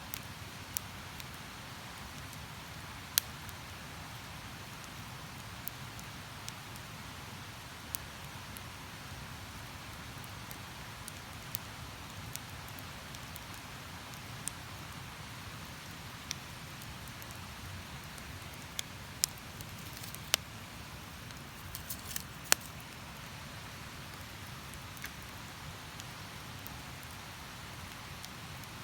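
Wood campfire crackling: irregular sharp pops and snaps, with a quick cluster of them about three quarters of the way through, over a steady rush of flowing river water.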